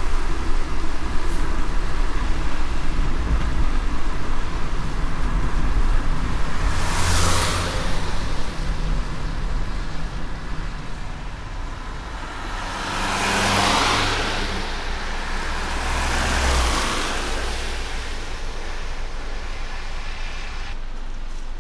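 A car driving on a wet road in light rain: a steady low road and engine rumble under an even hiss of rain and tyres. Three louder rushing swells, about seven seconds in and twice more after the middle, sound like passing traffic on the wet road.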